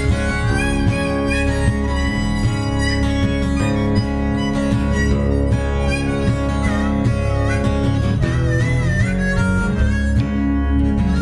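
Instrumental break of a live band: harmonica playing a lead line with bent, wavering notes over a strummed guitar.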